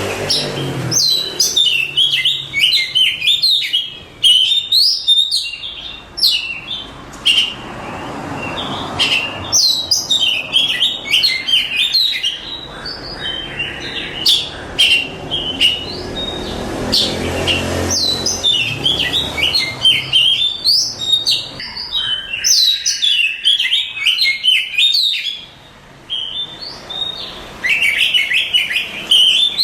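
Oriental magpie-robin (kacer) singing: fast, varied runs of high chirps and whistles in long phrases broken by short pauses.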